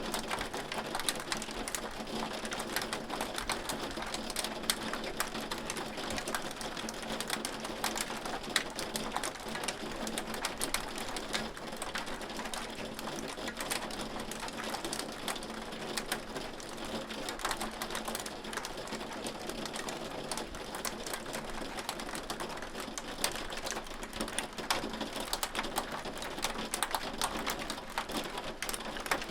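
Hailstones pelting a hard surface: a dense, unbroken patter of sharp little clicks and ticks at an even level.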